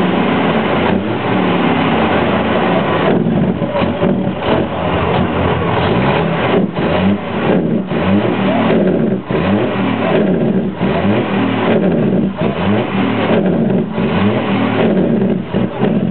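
Truck engine being revved over and over, its pitch swelling up and falling back about once a second: the 'snorting' sound.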